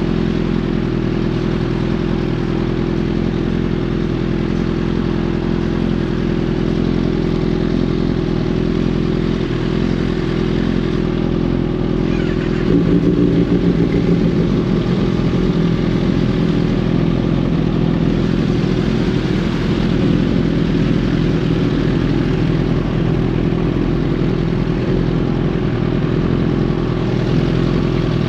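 Inline-four superbike engines idling steadily. About halfway through, the sound grows louder and rougher.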